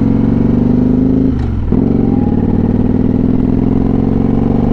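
Motorcycle engine running under way, heard from the rider's seat, steady apart from one brief drop in the note about a second and a half in before it picks back up.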